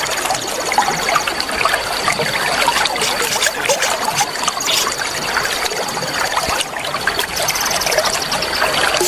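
Trickling, babbling water with small birds chirping over it, and a high, rapid trill that starts and stops several times above a steady high whine.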